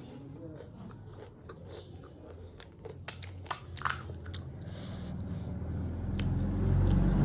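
Close-up chewing and biting on aalu nimki, a fried potato snack, with a few sharp crunches in the middle. A low rumble swells up over the last couple of seconds and becomes the loudest sound.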